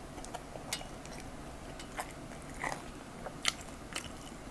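Close-miked chewing of a handful of spiced fried rice, with a few sharp, scattered crunches, likely from peanuts mixed into the rice.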